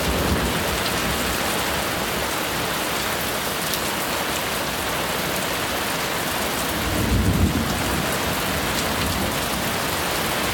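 Heavy thunderstorm rain falling steadily, with a low rumble of thunder swelling about seven seconds in.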